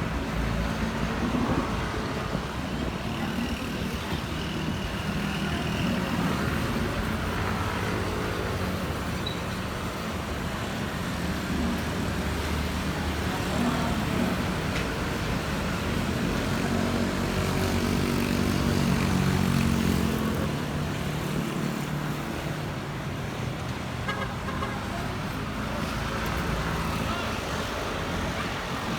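Jet engines of a Boeing 787-9 on its takeoff run, a steady rumble that swells to its loudest about two-thirds of the way through, mixed with road traffic.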